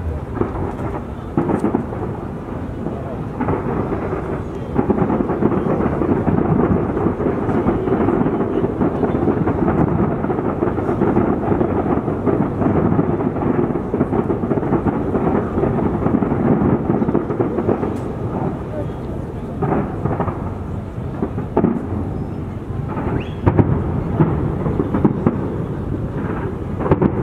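Fireworks exploding in a dense barrage: overlapping booms merge into a continuous rumble, with sharper single bangs standing out now and then, several of them in the last third.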